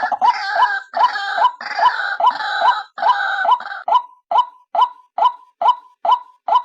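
White-breasted waterhen calling, played as a recorded female lure call: a rapid run of rough, overlapping notes, each with a sharp rising note, that about four seconds in thins to single clean rising calls a little over two a second.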